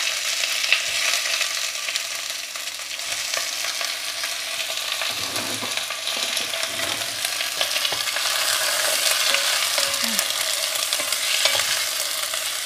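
Chicken wings and sliced onions sizzling steadily in hot oil in a soup pot, with small scrapes and clicks of a utensil stirring them.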